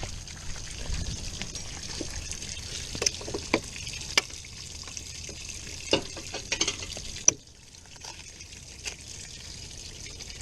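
Water trickling and draining steadily from the boat's pulled hull and live-well drain plugs, with scattered sharp clicks and knocks from the tie-down strap being fastened, the loudest about seven seconds in, after which it is quieter.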